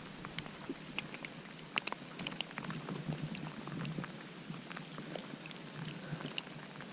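Rain pattering: scattered, irregular drop ticks over a faint steady hiss.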